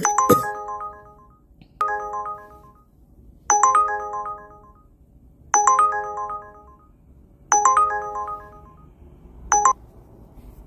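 Phone ringtone: a short chiming phrase of stacked, fading notes, repeated about every two seconds six times, the last one cut off short.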